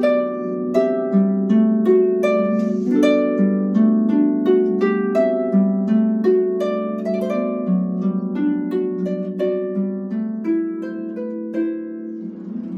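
Solo harp playing a flowing melody of plucked notes over sustained, ringing lower notes, about three or four plucks a second, growing softer toward the end.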